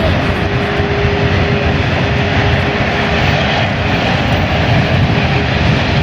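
Qantas Airbus A380's four Rolls-Royce Trent 900 jet engines at takeoff power, a loud steady rumble with a faint held hum in it, while wind buffets the microphone.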